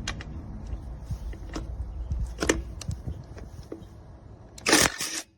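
Scattered clicks and knocks over a low rumble, then near the end a short, loud burst of a 20V brushless cordless impact wrench hammering on a truck lug nut.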